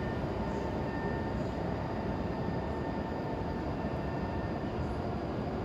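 Shinkansen bullet train running: a steady rumble with a faint whine over it.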